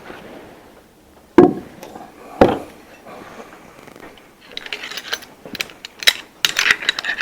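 Metal parts and hand tools being handled: two sharp knocks about a second apart, then a run of light clicks and clatter from about four and a half seconds in.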